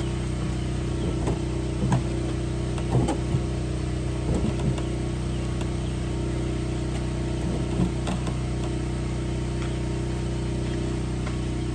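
A steady motor hum, like an engine running, with a few light knocks and clatters over it.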